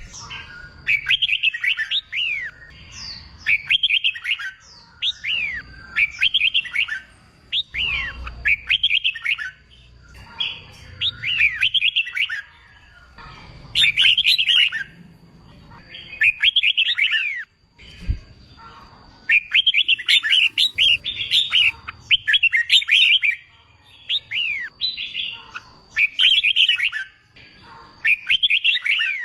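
Red-whiskered bulbul singing its competitive song: short, bright phrases of quick warbled notes, one phrase every second or two.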